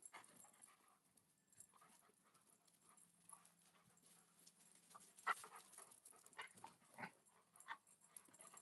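Near silence broken by faint, scattered short sounds from the Alaskan malamutes, most of them in the second half and the loudest about five seconds in. A faint low hum sets in about three seconds in.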